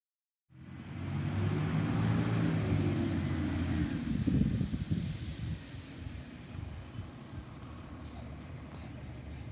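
Garbage truck engine running loudly, starting abruptly about half a second in, then dropping to a quieter steady run after about four to five seconds, with faint high squeals over it.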